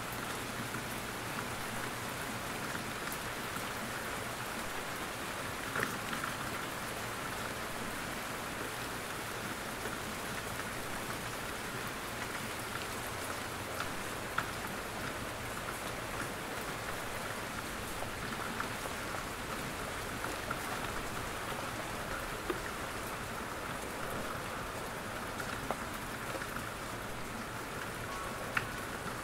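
Steady rain falling in a forest, an even hiss with scattered drops ticking, and a few louder single drops now and then.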